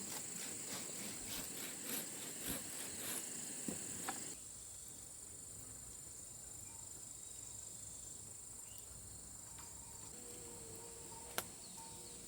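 Insects, crickets or cicadas, chirring steadily in a high band, with a run of light knocks over the first four seconds. About four seconds in the sound drops abruptly to a quieter chirring, and there is one sharp click near the end.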